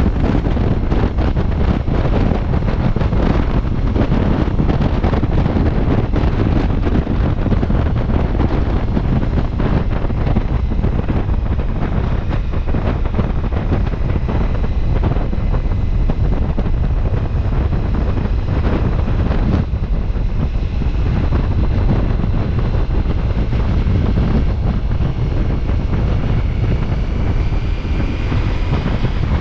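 Heavy wind rush on the microphone of a moving Ducati Multistrada V4S, with the motorcycle's engine running underneath. A faint whine rises slightly near the end.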